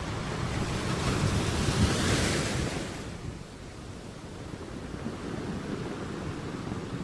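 Sea waves on a shore: one wave swells and breaks about two seconds in with a hissing wash, then the surf settles back to a lower, steady rush.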